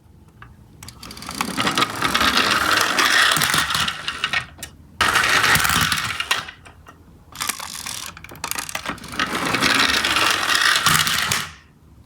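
Toy garbage truck minicars running, their small wheels and gears whirring and rattling. There are three runs of a few seconds each, with short pauses between them.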